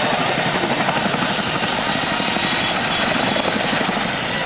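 Aircraft engine noise running steadily and loud, a dense rumble with a thin high whine that rises slowly in pitch.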